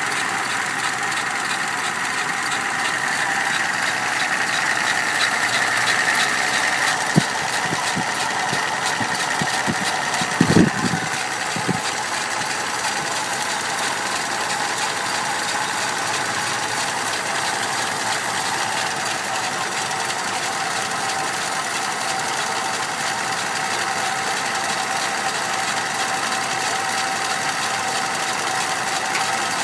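1987 Dodge W150's 5.2-litre V8 running steadily with a rhythmic ticking, which the owners take for a bad lifter. A few louder knocks come about a third of the way through.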